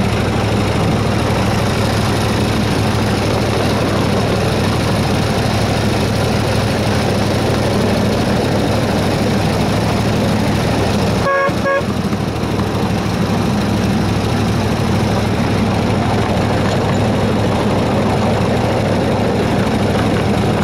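Engine of a 7¼-inch gauge miniature Baldwin S-12 locomotive running steadily as it travels, with a low, even hum. About eleven seconds in, the horn gives one short toot.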